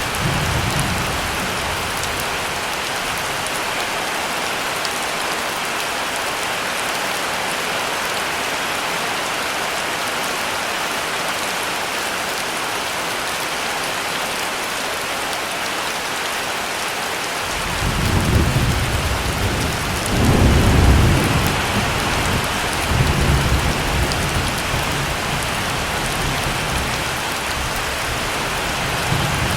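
Heavy rain falling steadily. A little past halfway, thunder rolls in several low swells for about eight seconds, loudest in the middle of the roll.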